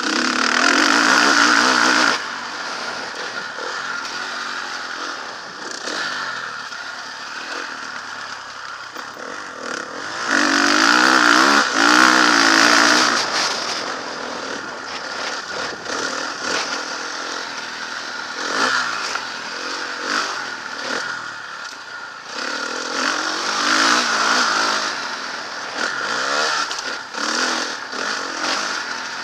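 Motocross bike engine running hard, with the throttle opened wide in three long bursts and backing off in between.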